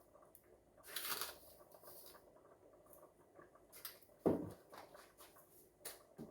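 Faint kitchen handling noises from cooking at the pot: a brief hiss about a second in, a single knock a little past four seconds in, and scattered light clicks.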